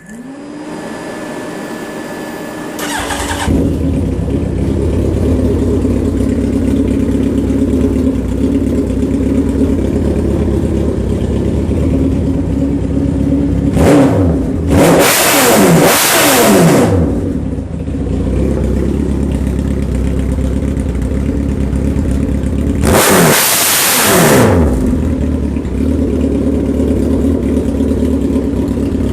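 2005 Suzuki Hayabusa's 1300 cc inline-four with a full Voodoo exhaust, cranked over by the starter and catching about three seconds in, then idling. It is revved three times, twice close together around the middle and once more later, with the pitch falling back to idle after each.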